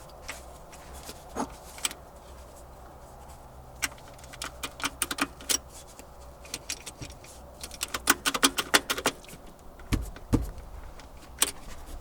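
Sharp metallic clinks and taps of steel tools and parts knocking together, in irregular clusters that are thickest a little past the middle, followed by two dull thumps about ten seconds in.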